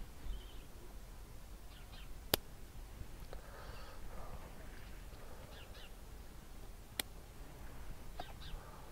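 Two sharp snips of bonsai shears cutting juniper shoots, about four and a half seconds apart, with faint rustling of the foliage between them.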